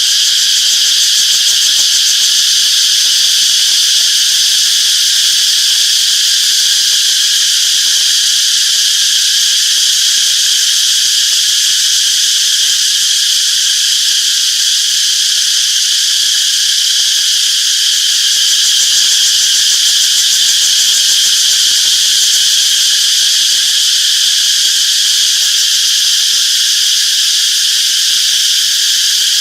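A chorus of cicadas buzzing loudly and without a break: a steady, high-pitched drone.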